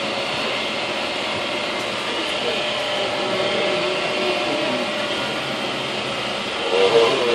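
Glass-bottom tour boat's motor running steadily, with faint passenger voices underneath.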